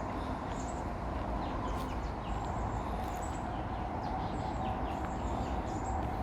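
Small birds chirping: many short, high calls scattered throughout, over a steady hum and a constant low rumble.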